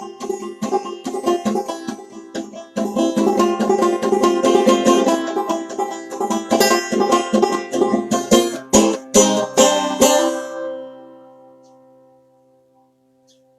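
Clawhammer banjo playing an old-time tune, brisk plucked notes ending on a final chord about ten seconds in that rings out and fades away.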